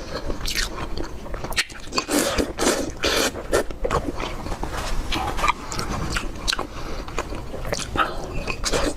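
A person chewing and biting food, a steady run of short, wet mouth clicks and smacks.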